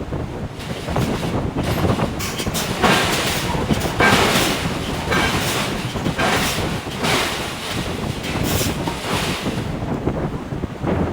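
Hydraulic forging hammer striking hot steel in a series of heavy blows, roughly one a second, over a steady rumble of forge machinery.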